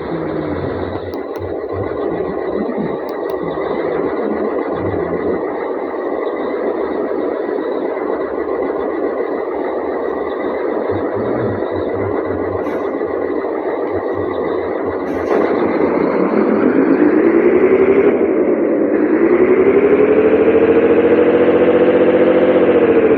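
Scania 113H 360 truck's diesel engine running under a steady loud noise. About two-thirds of the way through, its pitch climbs, dips briefly and then climbs again.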